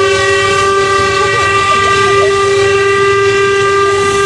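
Steam locomotive whistle blowing one long, steady blast.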